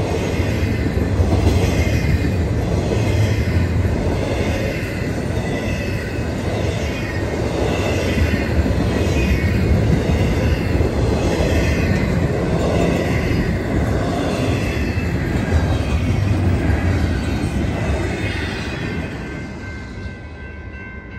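Double-stack intermodal freight train rolling past: a steady rumble and rattle of loaded well cars' wheels on the rails. Near the end the noise fades as the last cars go by.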